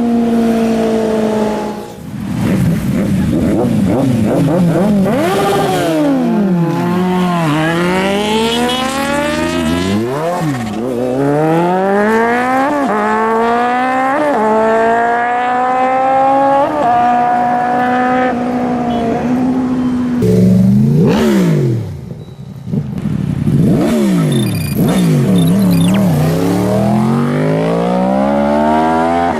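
Superbike engines revving hard and accelerating up through the gears, the pitch climbing and dropping back at each shift. Several times they slow, with the pitch falling, then accelerate again.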